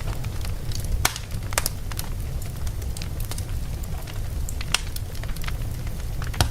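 Logs burning in a fireplace, crackling with irregular sharp pops and snaps over a steady low rumble of the fire.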